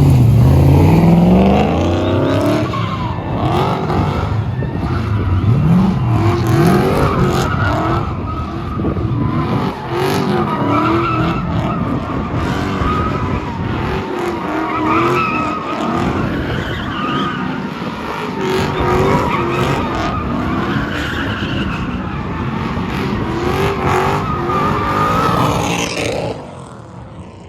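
Straight-piped V8 drift car revving hard in repeated rises and falls while its rear tyres squeal through a long slide. The sound drops away sharply near the end.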